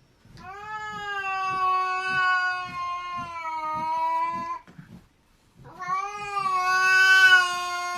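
Domestic cat yowling: two long, drawn-out cries of about four seconds each, the second starting about six seconds in.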